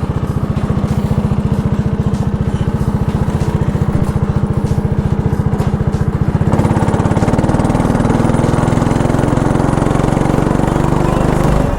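Small single-cylinder go-kart engine running with an even, rapid putter, then throttling up about six and a half seconds in as the kart pulls away.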